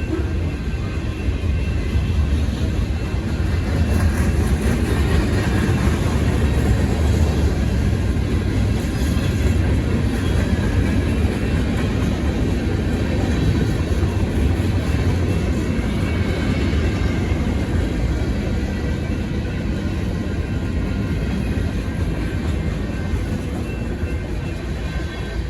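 Union Pacific manifest freight train rolling past, a continuous rumble of wheels on rail that eases slightly near the end.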